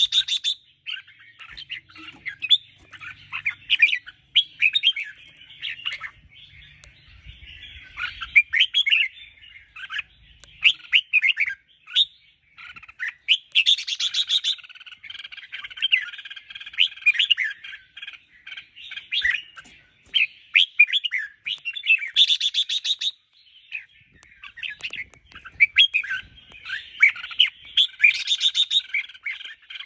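Red-whiskered bulbuls singing: quick, varied chirping and whistled phrases with short gaps, and a few louder, busier bursts along the way.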